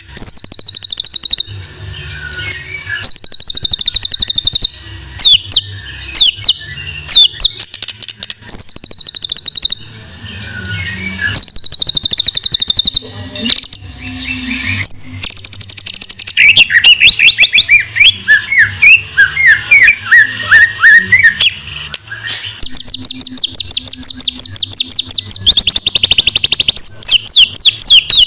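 White-rumped shama (murai batu) singing a loud, continuous, varied song of fast high trills and rapid repeated notes, with a run of lower, sliding whistled notes partway through.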